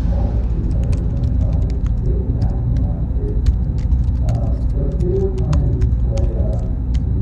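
Ambient background recording: a steady low rumble with indistinct muffled voices, many small clicks and a faint thin high tone.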